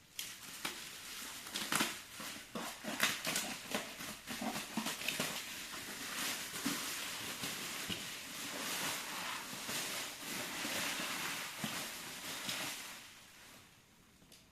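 Packaging being handled and opened: rustling of wrapping and cardboard with many small knocks and clicks, dying away near the end.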